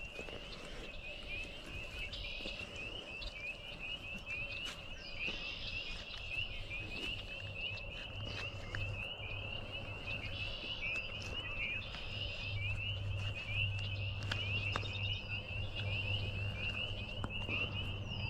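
A chorus of frogs calling continuously in rapid, overlapping notes, with short bird calls at intervals. A steady low hum joins about eight seconds in.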